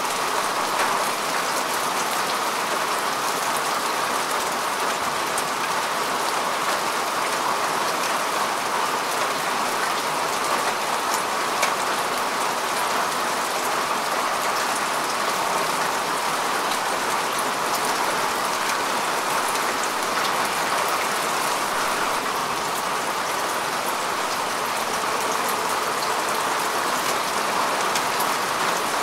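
Steady rain falling on grass and earth: an even hiss of rainfall with many fine, close drop ticks and no gaps.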